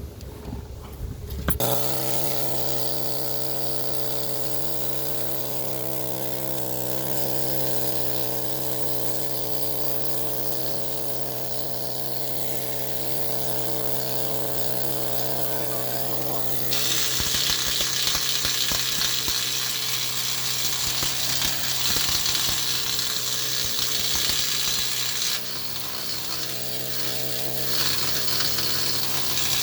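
Air-powered needle scaler starting about a second and a half in and running with a steady buzz as its needles hammer. About halfway through a harsher, brighter rattle joins in as it chips thick paint off the steel, easing off briefly near the end and coming back.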